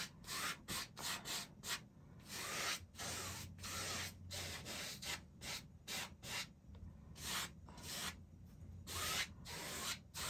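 Paintbrush scrubbing paint onto a canvas in quick, uneven back-and-forth strokes, roughly two a second.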